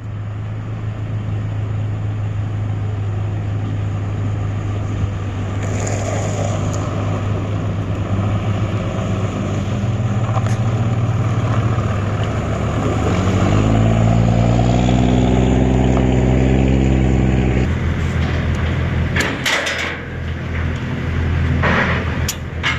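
An engine running steadily, revving up about halfway through and holding there for a few seconds before dropping back to idle. A few sharp knocks near the end.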